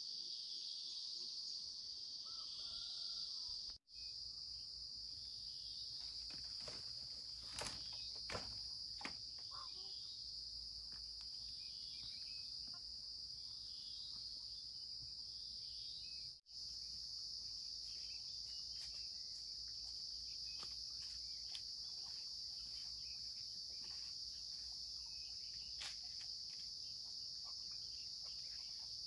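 Steady high-pitched insect chorus drone in a forest, with a few scattered ticks and clicks a few seconds in.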